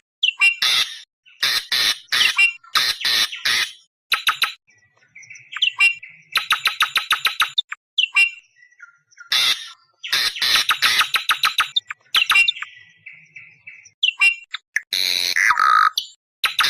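Awar-awar bird call as played for luring wild birds: repeated bursts of rapid, harsh chattering notes, each burst about a second long, with a few short whistled notes in the gaps between them.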